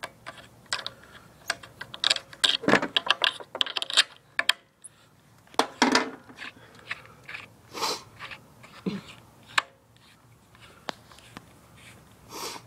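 Irregular clinks, clicks and knocks of hand tools and small metal parts being handled during disassembly of a supercharger.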